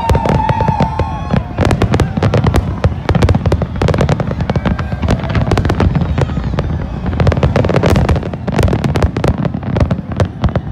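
Large aerial fireworks display: many shells bursting in quick succession, a dense run of bangs and crackles over a continuous low rumble of explosions.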